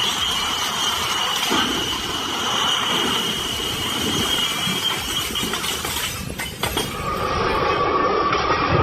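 A steady, high-pitched metallic squeal over heavy rumbling machine noise. After a break near seven seconds it gives way to a steadier, lower whine.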